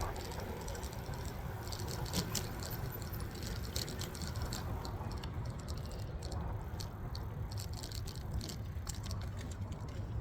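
E-bike rattling, with irregular light clicks over a steady low rumble.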